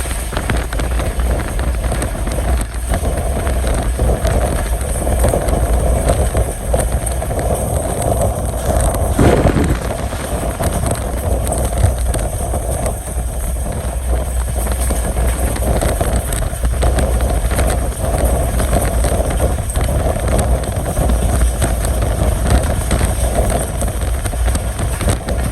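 Passenger train running along the line: a steady rumble of wheels on rails and rushing air, with a brief louder swell about nine seconds in.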